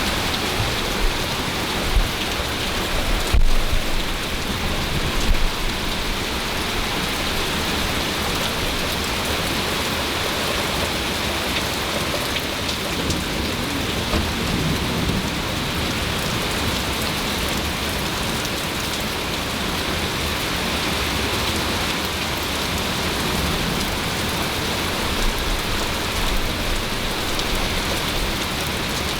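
Heavy thunderstorm rain pouring steadily. A sharp crack of thunder comes about three seconds in, with low rumbling around it.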